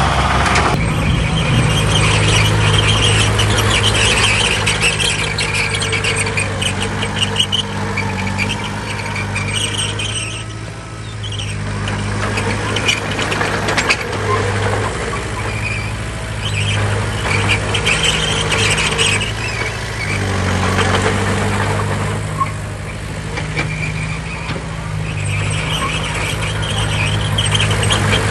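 Diesel engine of heavy earthmoving machinery running under load, with scattered higher-pitched squeal and clatter over the engine note. It eases off for a moment about eleven seconds in and again a little past twenty seconds.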